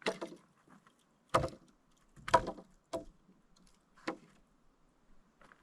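Wooden boards knocking and clunking as they are handled and set in place: about five separate knocks, the loudest about a second and a half and two and a half seconds in.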